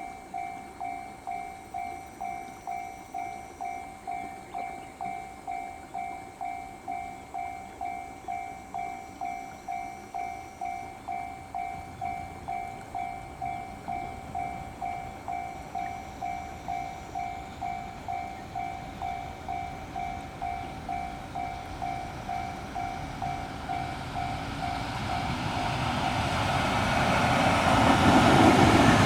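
A railway level-crossing warning bell dings evenly about twice a second. Near the end a freight train approaches, and its rising noise grows loud and drowns out the bell.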